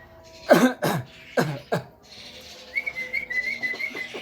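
Javan myna giving four sharp, quick downward-sliding calls in the first two seconds, then a warbling whistle held near one pitch with a rapid flutter from just under three seconds in.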